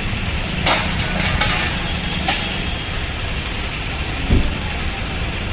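Steady rumble of vehicle engines in road traffic, with a few sharp clicks early on and a single low thump about four seconds in.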